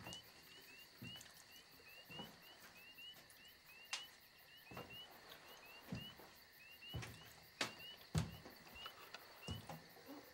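Night chorus of small frogs peeping: short rising peeps, several a second, over a faint steady high hiss. Occasional sharp knocks and low thuds stand out above it.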